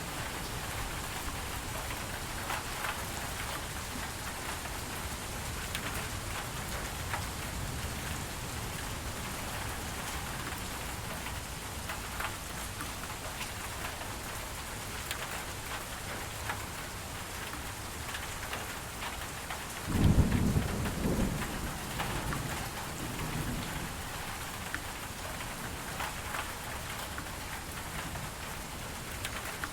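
Steady rain falling, with the patter of many drops. About two-thirds of the way through comes a low rumble of thunder, the loudest sound here, which swells for a couple of seconds and then trails off in fainter rumbles.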